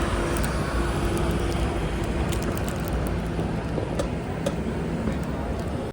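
Road traffic noise: a vehicle engine's steady low rumble over the hiss of passing traffic, which cuts off abruptly near the end.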